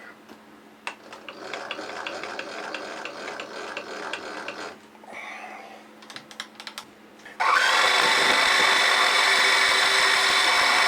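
Rattling mechanical clatter with regular clicks, then a few sharp clicks. About seven seconds in, a machine tool's motor starts suddenly and runs steadily and loudly, with a whine of several steady tones, as the machine is set to drill a clearance hole in a small steel rod.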